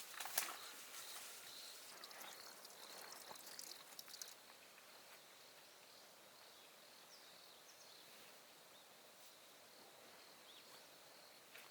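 Near silence: faint outdoor ambience, with a few light clicks and rustles in the first four seconds.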